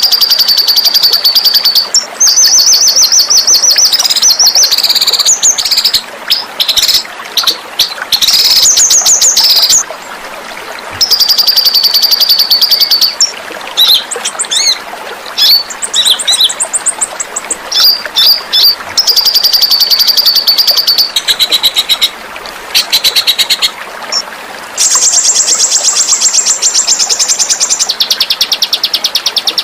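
Small bird singing in long, rapid, high-pitched trills of a few seconds each, broken by short sharp chips and brief pauses, in the sharp 'pedas' style used as a masteran for training caged songbirds.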